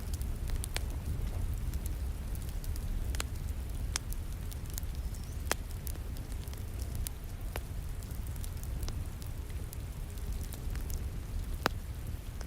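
Wood fire crackling, with sharp pops at irregular intervals, over a steady hiss of falling rain and a low rumble.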